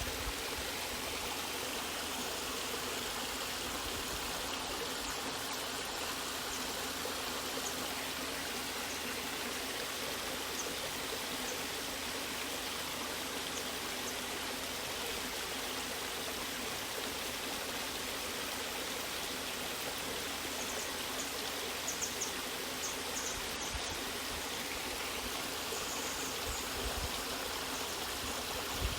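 Continuous rush of a natural stream or waterfall, steady and even, with a few faint high splashes or ticks a little over two-thirds of the way in.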